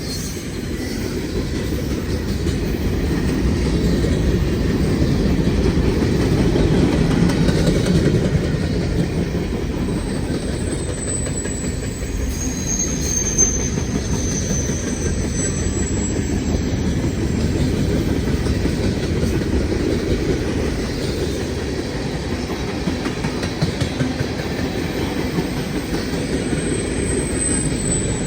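Freight cars of a long train rolling past: a steady low rumble of steel wheels on the rails with clickety-clack over the rail joints. Thin high wheel squeals come in around the middle and again near the end.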